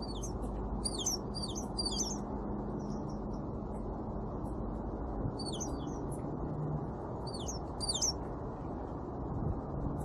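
Songbirds at a feeder calling in three quick bursts of high, downward-sliding notes, over a steady low background rumble.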